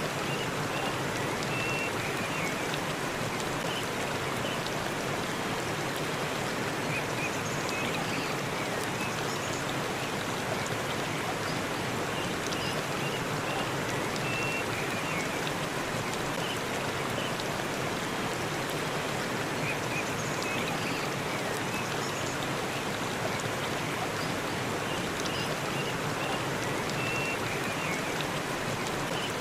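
Forest waterfall rushing steadily, an unbroken wash of falling water. Faint short high chirps come through it every several seconds.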